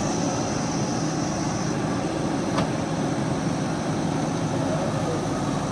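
JCB backhoe loader's diesel engine running steadily, with a single sharp click about two and a half seconds in.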